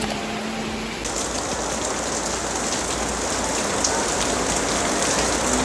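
Heavy rain falling, a dense steady hiss with scattered drop clicks, setting in about a second in.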